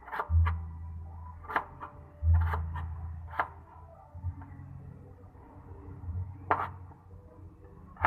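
A knife knocking on a cutting board while chayote is cut into pieces: a run of irregular sharp knocks, with low dull thuds between them.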